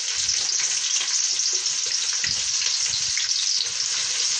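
Chopped onion frying in hot oil in a cooking pot: a steady sizzle.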